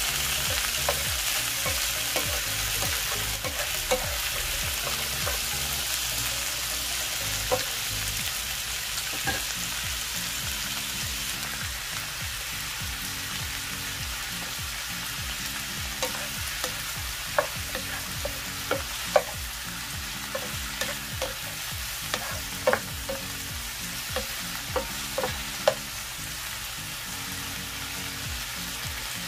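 Squid, onion and chilli frying in oil in a nonstick pan: a steady sizzling hiss with sharp ticks scattered through it, coming more often in the second half.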